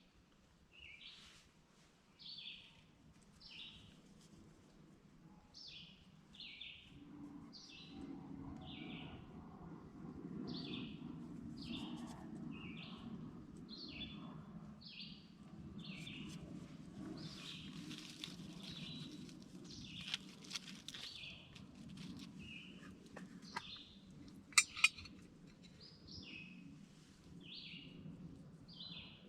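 A bird calling over and over in short, sharp chirps, about one to two a second. A low, steady rushing noise comes in about seven seconds in, and a few sharp clicks sound near the end.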